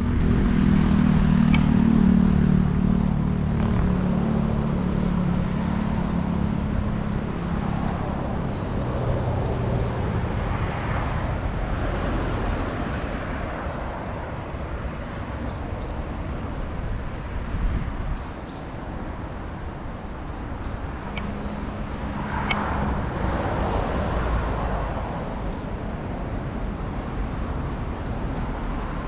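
A wild bird calls repeatedly in short, high, thin bursts of two or three quick notes, about every two seconds. Under it runs a steady low rumble that swells and fades a couple of times.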